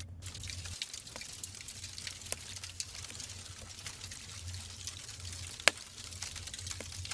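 Wood fire burning in a fireplace: logs hissing, with scattered sharp crackles and one loud pop a little before six seconds in, over a low rumble of flame.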